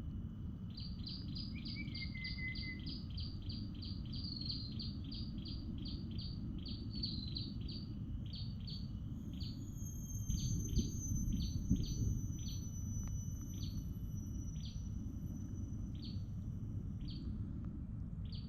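A bird calling a long series of short, sharp high notes, about four a second at first and slowing to about one a second towards the end, over a steady low rumble of outdoor ambient noise.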